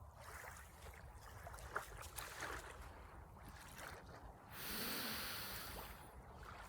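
A person breathing out, a long breath close to the microphone starting past the halfway point, over a low rumble and a few small clicks.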